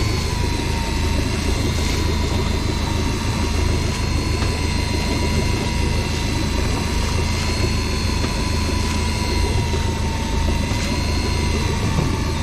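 Boat engine running steadily, a constant low rumble with a faint, slightly wavering whine above it.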